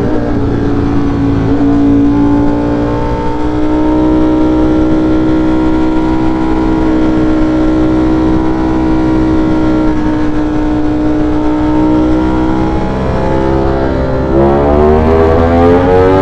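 V4 sport motorcycle engine running at steady, fairly high revs under a low rumble of wind on the helmet microphone, its pitch easing slightly. About two seconds before the end it revs up, the pitch climbing in quick steps.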